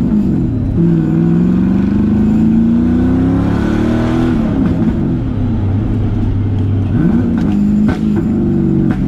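LS V8 engine in a Nissan 350Z pulling under acceleration: its pitch climbs steadily for about three seconds, then falls away as the throttle comes off, running lower before a short rev near the end.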